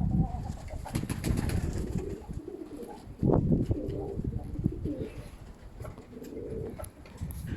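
Domestic pigeons of the Baku fighting breed cooing, over a gusty low rumble of strong wind on the microphone.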